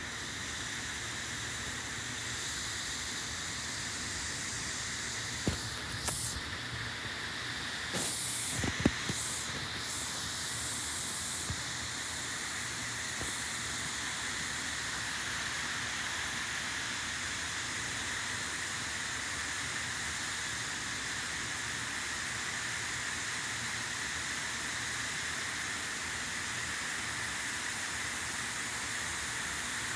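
Freight train rolling past: a steady hiss of wheels on rail, with a few sharp clanks in the first third.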